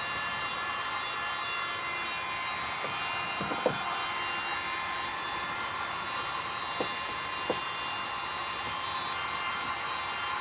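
Electric heat gun running steadily, its fan motor whining over a blowing hiss, as it heats a strip of barrel plastic to soften it for bending into a canoe rib. A few light knocks come through, one about three and a half seconds in and two around seven seconds.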